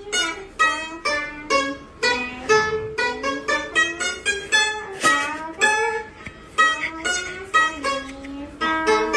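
A round-bodied Chinese plucked lute playing a melody of single plucked notes, about two or three a second, some notes sliding in pitch.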